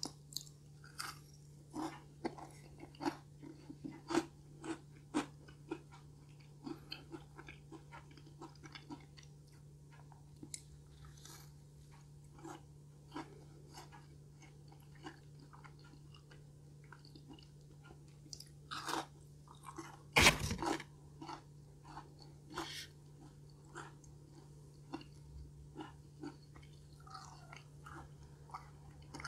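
Close-miked chewing of soft, chewy food, with many small wet mouth clicks and one louder bite sound about two-thirds of the way through. A faint steady low hum runs underneath.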